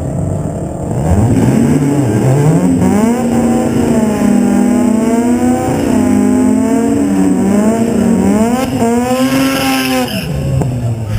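Mazda RX-7 FD twin-turbo rotary engine revving up and held at high revs during a burnout, its pitch wavering up and down with the throttle. Tire squeal comes in near the end, just before the revs fall away.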